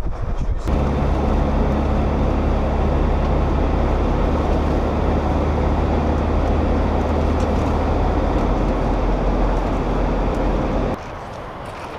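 Car driving: a steady engine and road hum with a low drone. It comes in abruptly just after the start and drops away suddenly about a second before the end.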